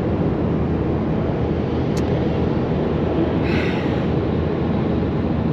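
Steady road and engine rumble inside a moving car's cabin, with a brief hiss about three and a half seconds in.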